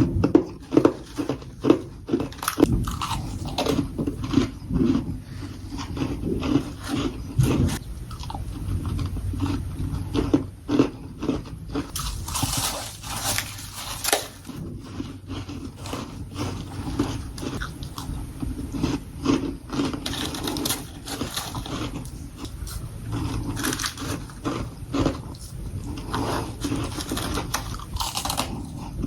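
Close-miked crunching bites and chewing of freezer frost, many sharp crunches in quick succession, with a longer, brighter crunch about twelve seconds in.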